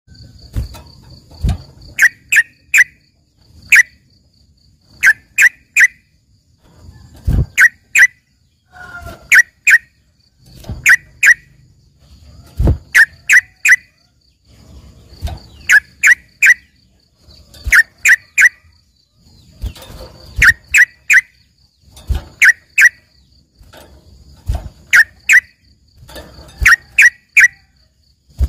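Caged yellow-vented bulbul (trucukan) singing loud, sharp whistled notes in quick clusters of two or three, repeating every second or two. The song is a learned one that its keeper likens to a greater green leafbird (cucak ijo). A faint steady high buzz and a few low thuds sit behind it.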